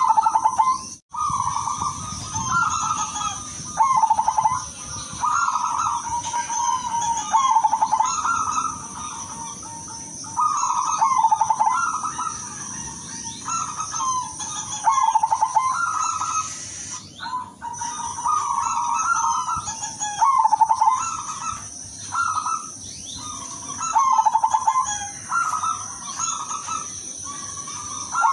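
Zebra dove (perkutut) cooing: rolling, trilled phrases repeated every second or two, over a steady high-pitched hiss.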